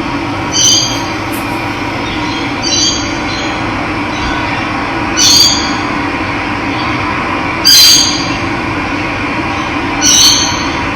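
Steady rushing of running water, with a bird giving a short, high call five times, about every two and a half seconds. The call near the eight-second mark is the loudest.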